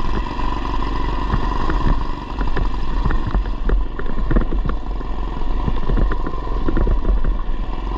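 Predator 212cc single-cylinder engine of a mini bike running under way through a header muffler, with frequent short rattles and knocks.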